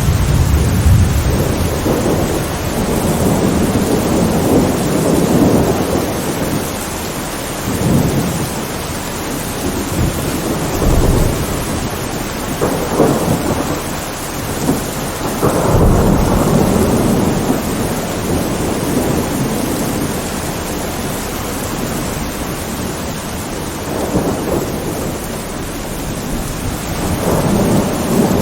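Steady heavy rain with thunder rumbling in repeated low rolls that swell and fade every few seconds.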